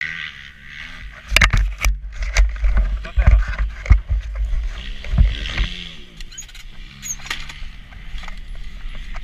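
Motocross motorcycle engine running, its pitch rising and falling around the middle. Heavy low rumble and a series of knocks and thuds run through it, loudest in the first half.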